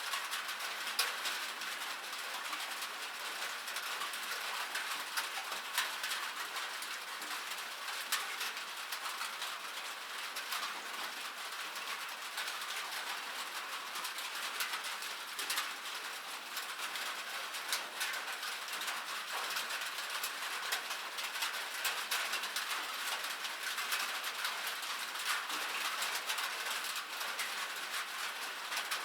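Rain falling on a metal surface: a steady, dense patter of sharp drop ticks.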